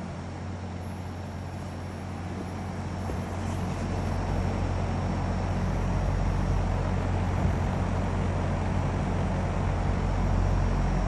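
Mitsubishi heat pump outdoor unit running, its fan working hard, with a steady low hum and a faint steady high tone; the noise swells louder from about four seconds in.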